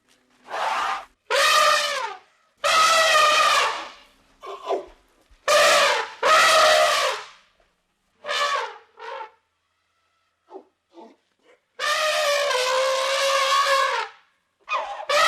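An animal calling over and over: about nine loud, wavering, pitched calls of half a second to two seconds each, the longest one near the end.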